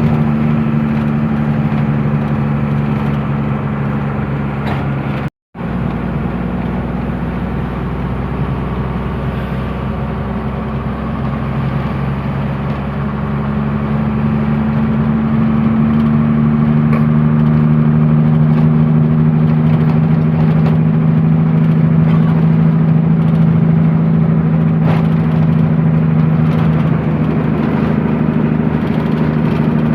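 Truck engine running steadily under way, with a brief dropout about five seconds in, then growing louder from about twelve seconds as it pulls harder.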